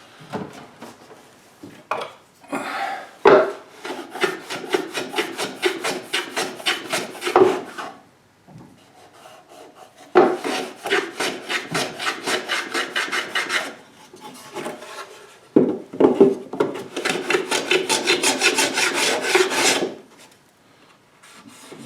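Hand abrading of wood, rapid back-and-forth rubbing strokes at several strokes a second, cleaning up glued-in wood patches flush. The strokes come in three bouts with short pauses between.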